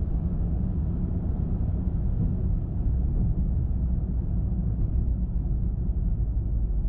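Car driving along a road: a steady low rumble of tyre and engine noise, even throughout with no distinct events.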